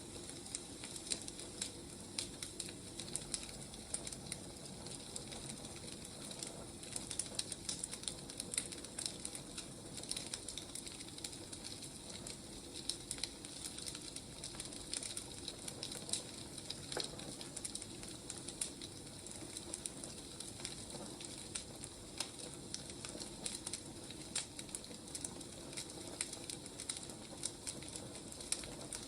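Burning firewood crackling: a steady stream of small pops and snaps over a soft hiss.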